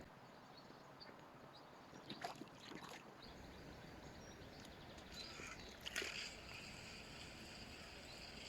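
Quiet outdoor ambience with faint, short, high bird chirps now and then. A few soft clicks and knocks come about two seconds in, and a brief rustle with a sharper knock about six seconds in.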